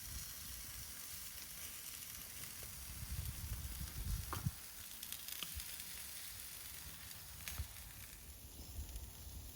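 Marinated shrimp sizzling on a grill, a steady hiss, with a few sharp clicks. The hiss thins near the end.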